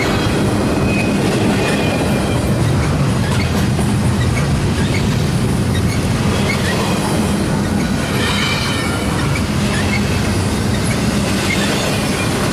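Intermodal container stack train rolling past: a steady rumble of steel wheels on rail with scattered clicks, and a brief high wheel squeal about eight seconds in.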